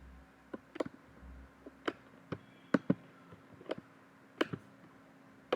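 Computer mouse and keyboard clicks, about ten sharp, irregularly spaced clicks, over a faint steady hum.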